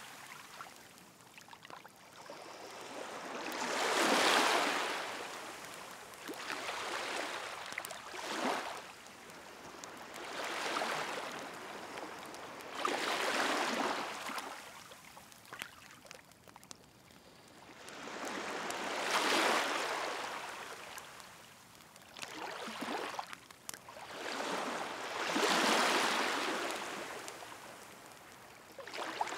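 Sea waves washing onto the shore in slow surges, swelling and falling away about every five or six seconds, with the faint crackle of a bonfire between them.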